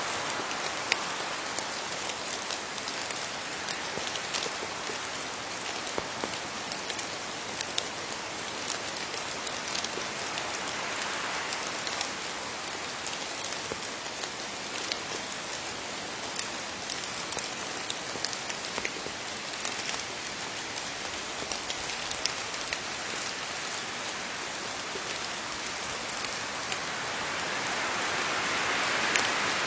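Steady rain falling on leaves, a continuous hiss with many sharp individual drop taps, swelling a little near the end.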